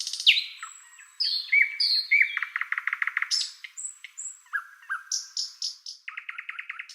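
Birds chirping and calling in quick succession: downward-sliding chirps, short rapid trills and thin high whistles.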